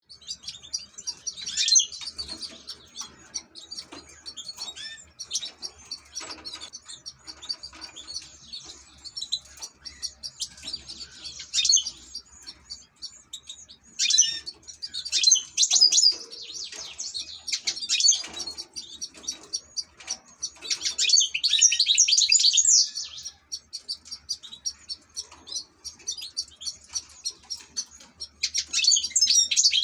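European goldfinch singing: rapid, high twittering song in bursts with short pauses, the longest and loudest burst about two-thirds of the way through.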